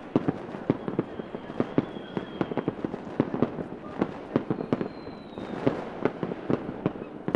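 Fireworks going off: a dense, irregular stream of sharp pops and cracks, with a few faint high whistles that fall slightly in pitch, about a second in and again near the middle.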